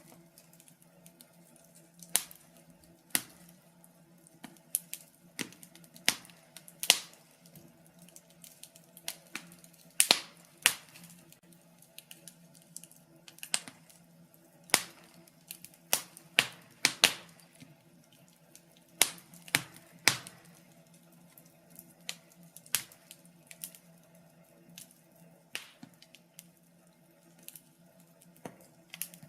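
Wood fire in a fireplace crackling, with irregular sharp pops and snaps, sometimes several in quick succession, over a faint steady low hum.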